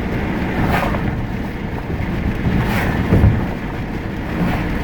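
Steady road and wind rumble of a car driving at speed, heard from inside the moving car.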